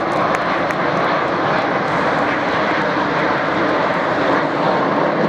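Aircraft engine noise, a loud steady rush without rhythm, from an airplane flying over.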